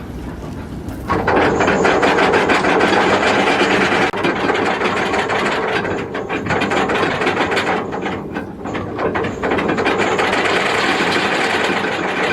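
A rapid, steady mechanical rattling, dense fast clicks like a chain or ratchet mechanism, starting about a second in.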